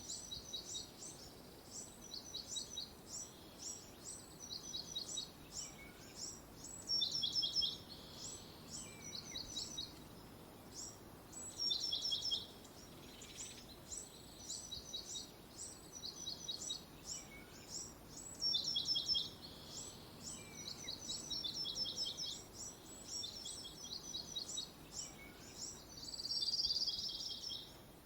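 Birds chirping continuously in quick runs of short, high notes, with a few louder bursts of rapid chirps every several seconds.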